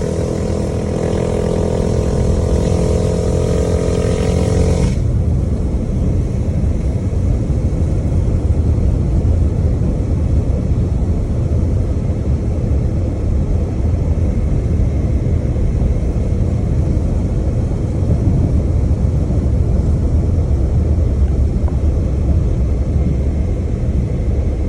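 Mini bike's small single-cylinder engine running at a steady pitch, with hiss above it. About five seconds in the engine tone drops away and a deep, steady wind rumble on the microphone takes over.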